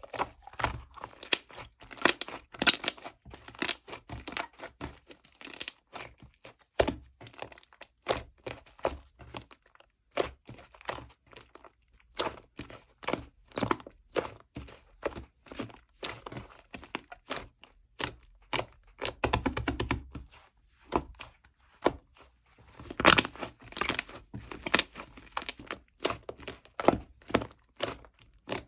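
Irregular close-up taps, clicks and crinkling rustles of small objects being handled, with no steady rhythm.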